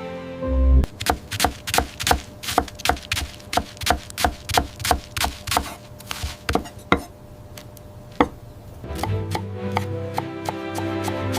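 Knife chopping on a cutting board in a steady rhythm of about three to four strokes a second, stopping after about six seconds, with one last chop a moment later; music comes back in near the end.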